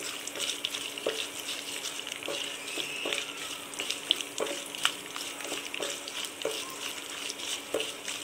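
Peanuts, dried red chillies and curry leaves sizzling in hot oil in a stainless steel pan, with a wooden spatula stirring and tapping against the pan about every half second.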